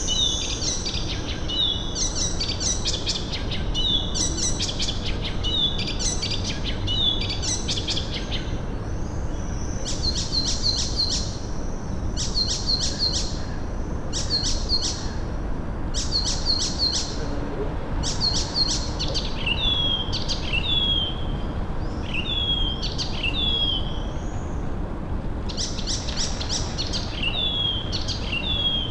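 Birds calling: short bursts of rapid, harsh chirps repeated every second or two, many ending in a short falling note, over steady low background noise.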